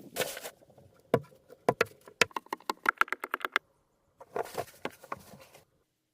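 A run of sharp knocks and taps that comes faster, several a second, then stops abruptly, with short bursts of rustling or scraping before and after.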